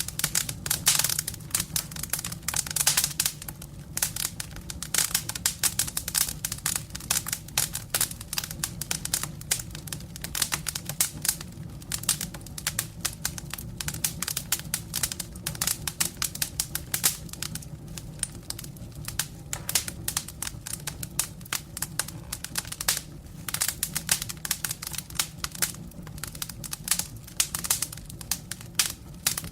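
Wood fire in a fireplace crackling, with quick, irregular pops and snaps over a steady low rumble of the flames.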